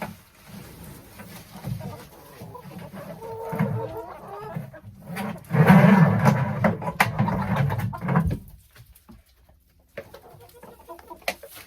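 Domestic chickens clucking, with a louder noisy stretch about halfway through that cuts off abruptly, followed by a few light clicks near the end.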